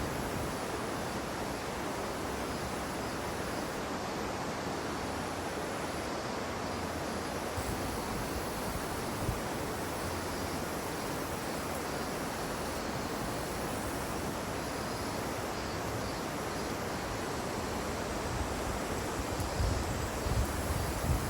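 Steady outdoor hiss of wind, with gusts buffeting the microphone in low rumbles near the end.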